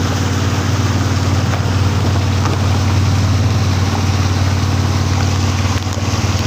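Motor engine running steadily at a constant speed, a loud low hum with overtones.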